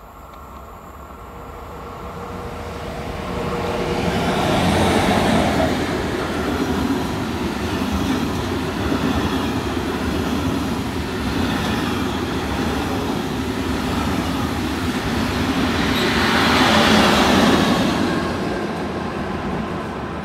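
Electric double-deck passenger train running past close by, a steady rumble and rush of wheels on rails. It builds up, swells about five seconds in and again near the end, then begins to ease off as the train moves away.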